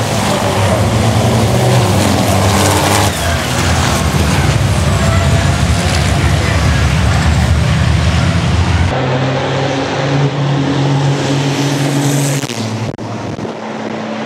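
Racing trucks' turbo-diesel engines running hard at speed. The sound changes abruptly about nine seconds in and again near the end.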